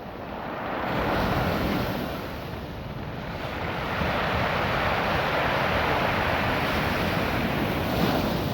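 Ocean surf washing over a beach of small rounded rocks, the wash swelling about a second in and again from about four seconds, with wind buffeting the microphone.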